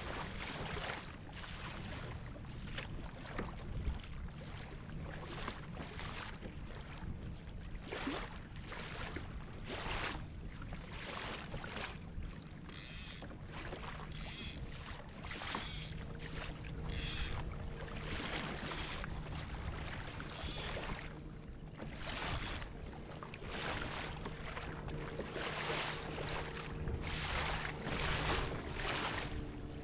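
Choppy lake water splashing and slapping against a kayak every second or two. A faint steady hum joins about halfway through.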